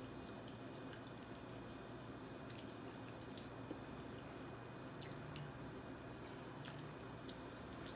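Faint, soft chewing of macaroni and cheese, with wet squishy mouth sounds and a few light clicks scattered through.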